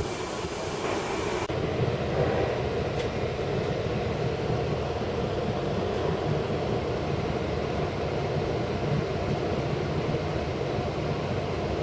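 Wind buffeting the microphone for the first second and a half, then, after a cut, a Long Island Rail Road passenger train running, heard from aboard: a steady, even rumble.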